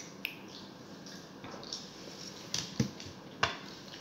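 Close-up eating sounds: a person chewing a mouthful, with wet mouth smacks and four or five short sharp clicks, two of them louder near the end.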